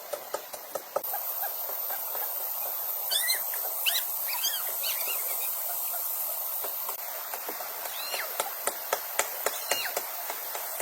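Steady rain hiss with repeated sharp taps, and short high squeaky chirps coming in little groups of three or four.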